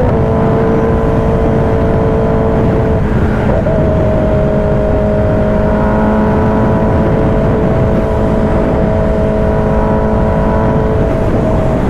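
Kawasaki ZX-10R's inline-four engine running at a steady cruising speed, its note holding level apart from a small change in pitch about three seconds in.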